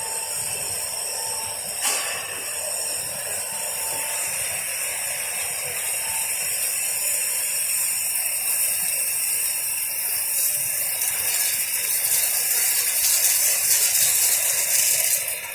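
Industrial microwave drying machine running: a steady machine hiss with several thin high whines, one sharp click about two seconds in, and the hiss growing louder near the end.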